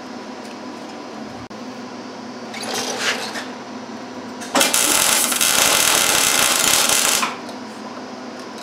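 Electric arc welder laying a tack weld: a steady crackling buzz of about two and a half seconds that starts about four and a half seconds in and cuts off abruptly. A shorter, quieter rasp comes about three seconds in.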